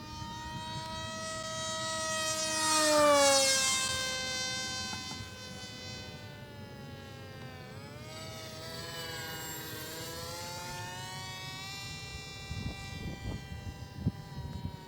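Electric motor and propeller of an H-King RADJet 800 RC plane whining in flight. The pitch falls as it passes close about three seconds in, where it is loudest, then swings down and up again as it turns and passes.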